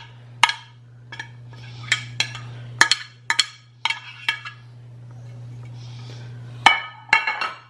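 Kitchen utensils and dishes clinking and knocking in irregular clusters as shredded chicken is tipped and scraped into a bowl, over a steady low hum.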